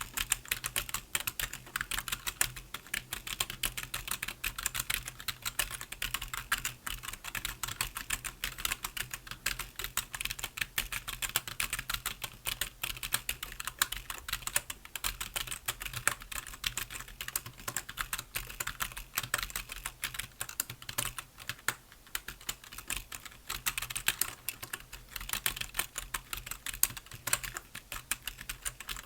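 Computer keyboard being typed on continuously, a fast, uneven stream of key clicks with no pauses.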